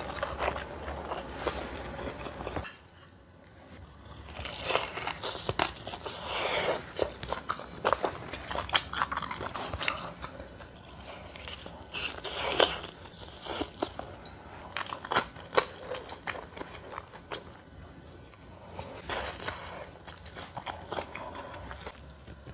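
Close-miked eating sounds: chewing and crunching of dumplings and kimchi, with irregular wet clicks and smacks from the mouth. There is a brief lull about three seconds in.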